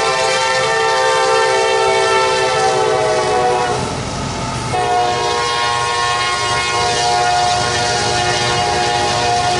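Locomotive air horn sounding a chord of several notes in two long blasts, with a break of about a second roughly four seconds in.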